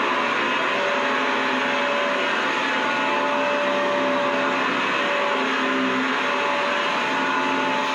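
Vacuum cleaner running steadily: an even rushing motor noise with a constant high whine and a lower hum that fades in and out.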